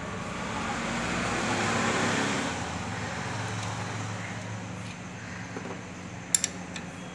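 A road vehicle passing by, its noise swelling and fading over a few seconds over a steady low hum, with two sharp metallic clicks near the end.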